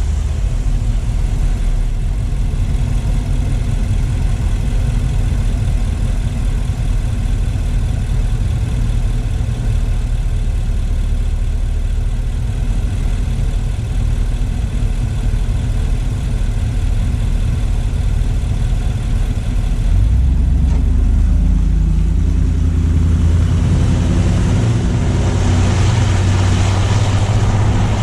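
Car engine running with road noise. About two-thirds of the way in, the engine gets louder and its note changes, and near the end a hiss from the tyres and the air grows as the car picks up speed.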